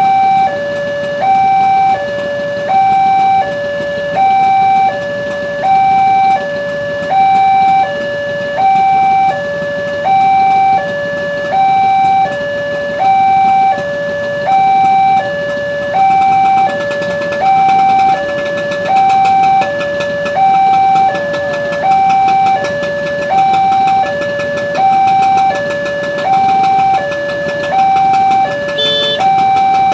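Indonesian railway level-crossing alarm sounding a loud electronic two-tone warning, alternating steadily between a higher and a lower note about every three quarters of a second, the signal that a train is approaching or passing the crossing.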